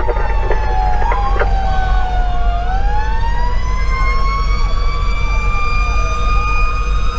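Fire engine sirens wailing together: one tone glides slowly down and then climbs back up about halfway through, while other siren tones sweep up and down over it. The truck's diesel engine rumbles steadily underneath.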